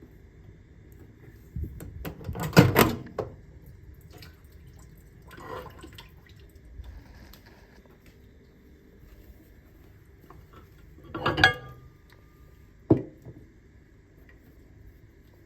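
A microwave oven humming steadily, broken by a few loud, irregular clattering noises: a long one about two seconds in, a weaker one near the middle, then a strong one and a short sharp knock near the end. This is the intermittent abnormal noise of the microwave.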